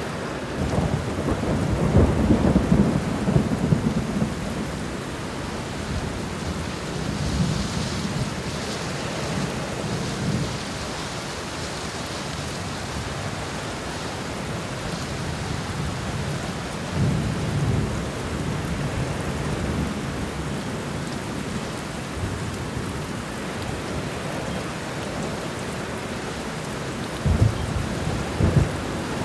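Thunderstorm: steady heavy rain with low rolling thunder. The rumbles are loudest from about one to four seconds in, swell again around the middle, and come back near the end.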